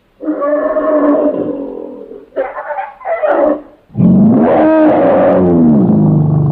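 Recorded elephant roars played as a vintage sound effect. A call of about two seconds comes first, then two short ones, then a long call from about four seconds in whose pitch slides downward.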